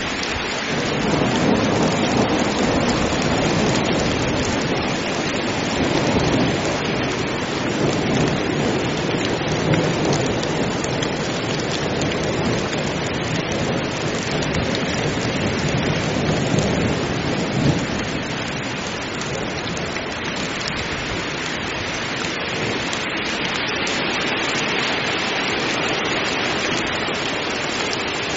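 Heavy rain falling steadily, with low rolling thunder rumbling through most of the first eighteen seconds, then dying away.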